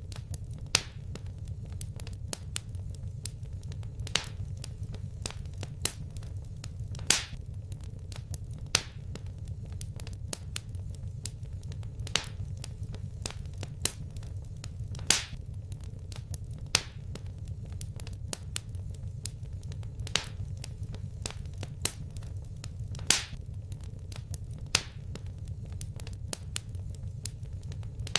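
Wood fire crackling in a fireplace: a steady low rumble with frequent small crackles and a louder sharp pop every second or two.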